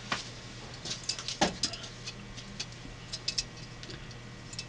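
Scattered light clicks and taps, with one sharper knock about one and a half seconds in, from handling a vintage Sunbeam toaster and its heat-adjustment parts.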